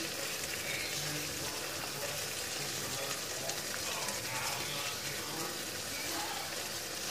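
Chicken in red chilli gravy sizzling steadily in a hot wok.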